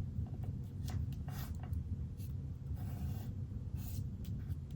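Cardstock being handled and pressed down by hand: soft scattered rubs and light taps of paper against the work surface, over a steady low hum.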